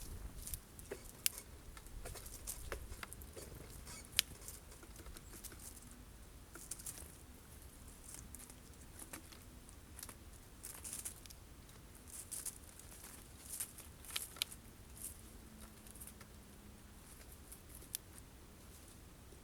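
Birds feeding at a sunflower-seed feeder: irregular sharp pecking taps and short bursts of rustling and fluttering, with a few louder taps.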